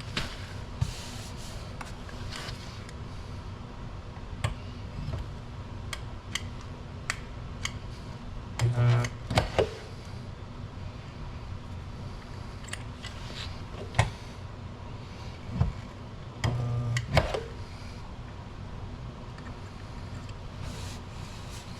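Stud welder firing twice to weld dent-pulling pins onto sheet metal: each weld is a short buzz of about half a second ending in sharp clicks, the two about eight seconds apart. Light clicks and taps of tool handling fall between them.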